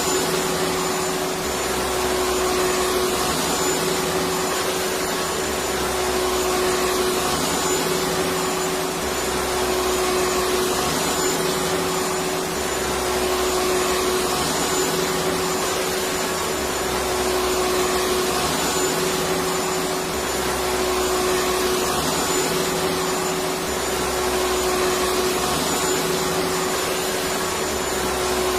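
Vacuum cleaner motor running continuously: a steady rushing noise with a constant hum, swelling slightly about every two seconds.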